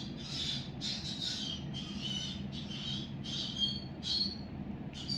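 Pet bird squawking over and over in short high calls, about two a second, over a steady low hum.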